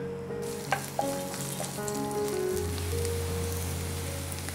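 Sliced black mushrooms sizzling in hot sesame oil in a nonstick wok, the sizzle starting about half a second in as they land in the pan, with a few light clicks near the start as they are scraped in with a wooden spatula.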